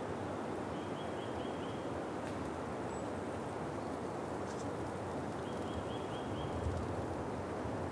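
Steady rush of flowing water, with a bird singing two short runs of about five quick high notes, about a second in and again about five and a half seconds in.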